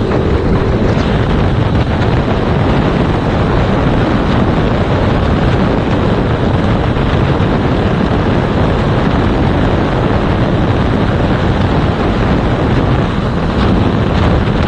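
Heavy, steady wind noise on a GoPro Hero 5 Black's microphone while riding a Yamaha MT-07 motorcycle at speed, burying the engine.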